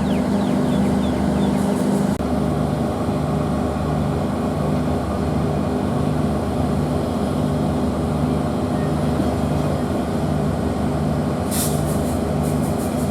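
Steady mechanical drone of a diesel-hauled train, with a brief break about two seconds in, after which a low pulsing beat repeats a little under twice a second. A few sharp clicks come near the end.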